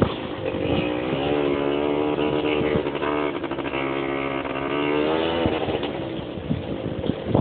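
Quad bike engine revving up about a second in, holding a steady pitch, then dropping back near the end, with scattered knocks.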